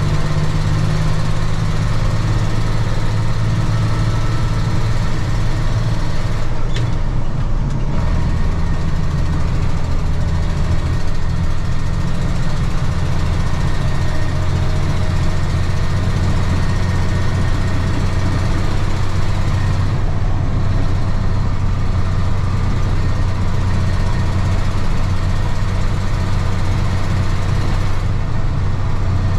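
Diesel engine of a 1995 Ford L8000 truck running steadily, with its low drone shifting in pitch about eight seconds in.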